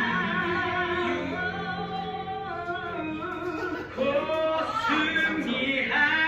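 Music with a singing voice holding long notes with vibrato, moving between pitches.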